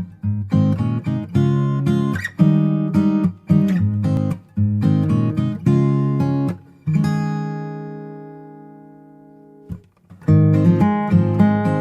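Background music: strummed acoustic guitar chords. About two-thirds of the way through, one chord rings out and fades, and after a short break the strumming resumes.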